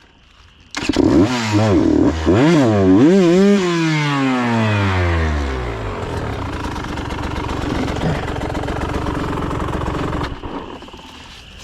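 KTM 125 XC two-stroke dirt bike engine catching about a second in, then revved up and down several times before the revs fall away into a steady run. The level drops sharply near the end.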